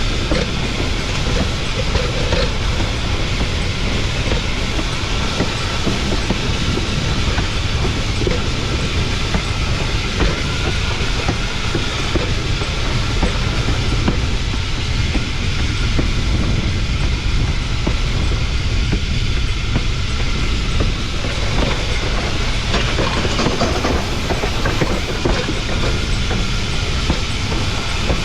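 Cumbres & Toltec narrow-gauge steam locomotive No. 488 rolling along, heard close at its pilot truck: a steady loud rumble of wheels on rail with the clickety-clack of rail joints.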